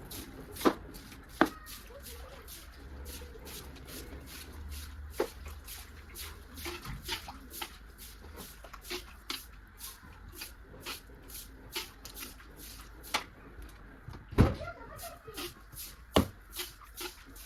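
Irregular light clicks and knocks of objects being handled, over a low steady hum.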